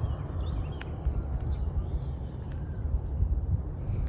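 Steady high-pitched insect chorus over a rough low rumble, with a few faint chirps.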